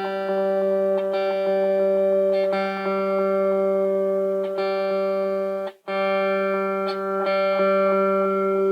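Electric guitar played clean through an analog delay pedal: one held note, struck again or echoed about once a second, ringing steadily. The sound cuts out suddenly for a moment about six seconds in, then resumes.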